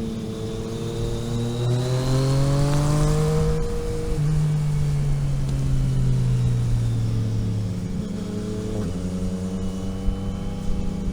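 Car engine under way on a road: the revs climb for about three and a half seconds, break briefly about four seconds in, then fall slowly, with a sudden rise in revs near the end, as on a downshift. Steady road noise runs underneath.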